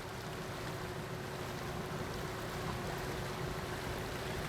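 Steady running of a small boat's motor on a river, with water noise and a faint steady hum.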